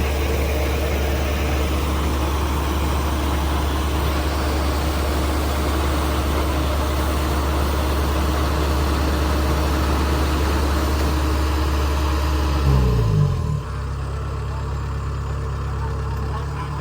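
Kubota DC70G Plus combine harvester's diesel engine running steadily; about 13 seconds in its pitch glides down and it settles into a quieter, lower run.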